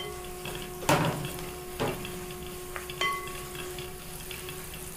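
Onion, ginger and garlic frying in coconut oil with ground spices just added, sizzling steadily while a spoon stirs them, knocking against the pan about three times.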